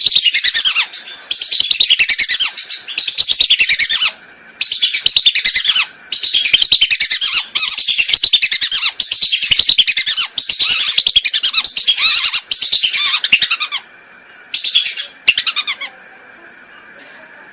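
Whistling ducks (belibis) calling, as a recorded hunting lure call: loud bouts of rapid, high whistled notes, each falling in pitch, that stop and start several times, with a faint steady hum in the gaps.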